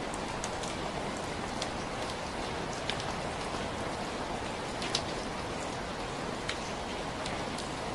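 Steady rain falling, a continuous hiss with scattered individual drops ticking sharply on a surface, one louder drop about five seconds in.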